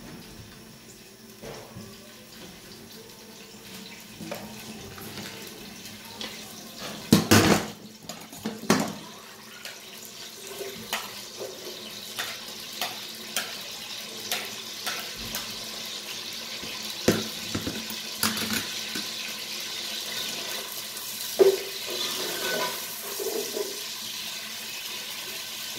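Food frying in hot oil in a stainless steel pot: two loud clatters about seven and nine seconds in as it goes in, then a hissing sizzle that grows louder, with a metal spatula tapping and scraping the pot about once a second.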